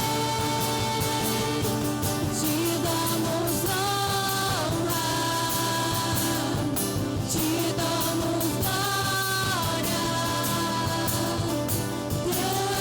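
Live worship band playing, with sung vocal lines held over a steady accompaniment.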